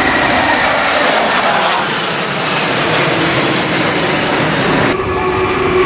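Aircraft flying past low with a loud engine roar, a faint tone in it slowly dropping in pitch. The sound changes abruptly about five seconds in.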